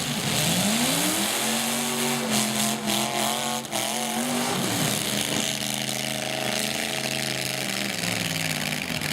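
Demolition derby trucks' engines revving: the pitch climbs over the first second and a half and holds, drops briefly about four and a half seconds in, then climbs and holds again before easing off near the end, over a steady hiss.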